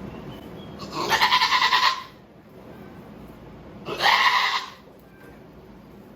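A doe goat in active labor bleats twice, straining: one long, wavering call about a second in, then a shorter one a few seconds later.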